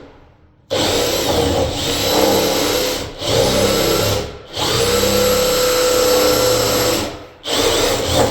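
Power drill boring the deadbolt's bolt hole deeper into the edge of a door, running in several bursts with short pauses between them.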